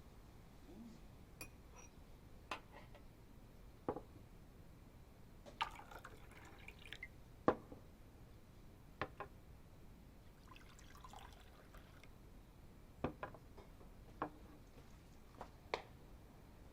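Faint, irregular clicks and small taps, about a dozen spread out with pauses of one to two seconds between them, over a quiet background.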